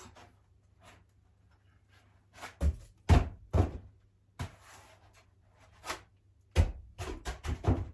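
Dull thumps and knocks, a cluster of three about three seconds in and another quick cluster of four near the end, with a couple of lighter knocks between.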